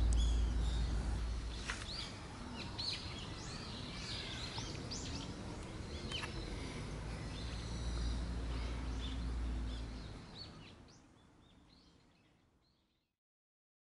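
Small birds chirping and calling over a steady low outdoor rumble, with the tail of a deep drum hit dying away at the start; the whole ambience fades out near the end.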